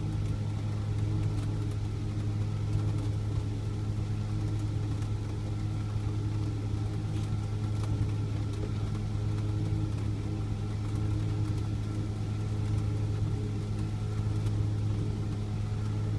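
A 4x4's motor running with a steady low drone at an even pitch during a winch pull, with no revving or change in speed.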